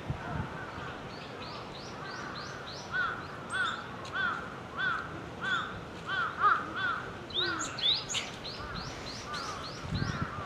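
A wild glatik jepang (a small songbird) giving a long series of short, harsh, down-slurred call notes, about two a second.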